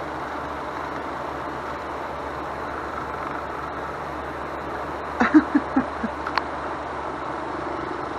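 A bird pecking and knocking at a window pane: a quick run of about six sharp taps on the glass a little past the middle, over a steady background rumble.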